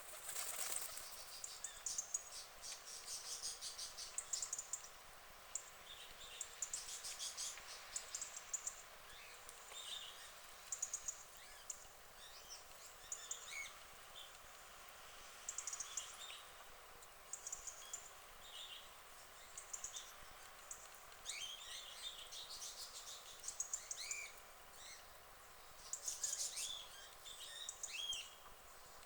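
Small songbirds chirping and calling, with repeated bursts of rapid, high-pitched chattering between short chirps and whistles.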